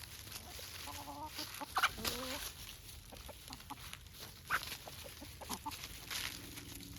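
Free-range chickens clucking while being fed, with short pitched calls about one and two seconds in, scattered light clicks, and a low drawn-out cluck near the end.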